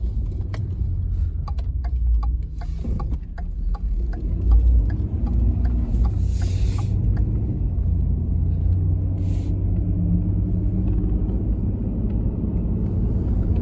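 2014 Ford F-150's 3.7-litre V6 on a road test: steady low engine and road rumble, running well after its no-start repair. There is a run of light ticks over the first few seconds, and a short hiss comes twice later on.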